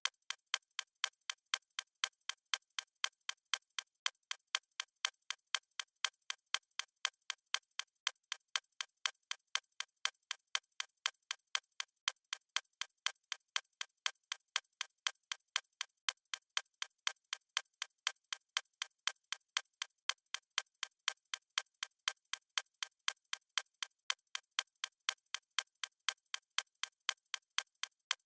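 Fast stopwatch ticking sound effect: sharp, crisp ticks at an even, unchanging pace.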